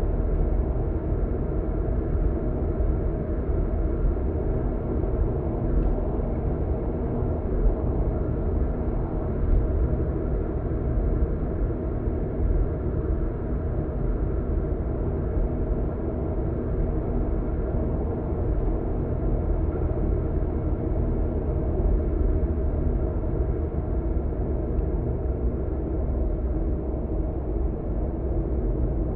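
Steady road and tyre rumble with a low engine drone, heard from inside a car's cabin while cruising on an expressway.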